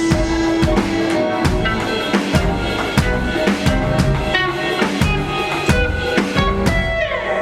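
A band rehearsing: guitar and drum kit playing a song together, with kick, snare and cymbal hits under the guitar notes. Near the end the guitar notes slide down in pitch.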